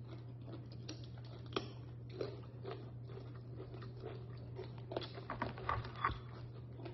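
Chewing and mouth sounds of people eating boiled lobster, with scattered small clicks and crackles from shell and meat being picked apart by hand, over a steady low hum.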